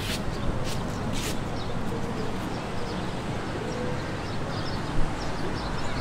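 Small birds chirping again and again over a steady low outdoor rumble, with a couple of short hissing rushes about a second in.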